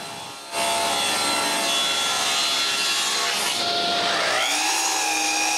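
Table saw ripping plywood, a steady saw noise that starts suddenly about half a second in; about four seconds in its pitch rises and then holds steady.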